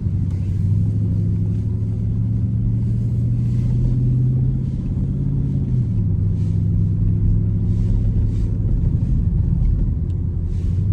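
Car engine running at low speed under light throttle, a steady low rumble. Its note climbs slightly and then drops suddenly about six seconds in.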